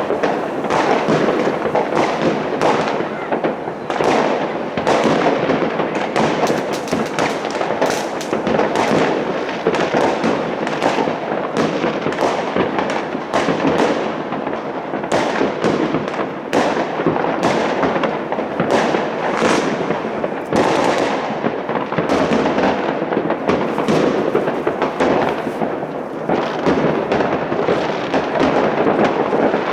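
Dense, continuous New Year's fireworks: many rockets and firecrackers popping and crackling over one another without a break.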